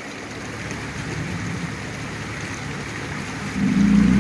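Steady rush of water from a river crossing; about three and a half seconds in, a vehicle engine revs up, its pitch rising.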